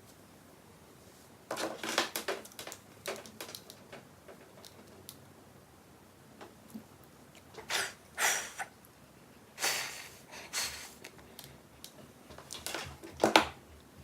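Intermittent rustling and light clicks from hair being handled and twisted during styling, in short clusters with quiet gaps between.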